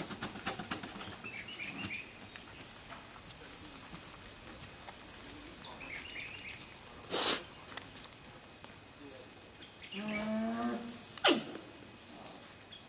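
Giant panda bleating: one held, pitched call of a little over a second, about ten seconds in. A short, sharp, noisy burst comes about three seconds before it.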